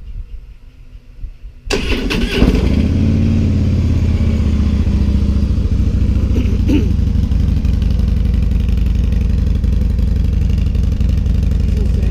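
2016 Harley-Davidson Ultra Limited's V-twin started up on its stock mufflers, catching about two seconds in and settling into a steady idle. This is the quiet stock exhaust note.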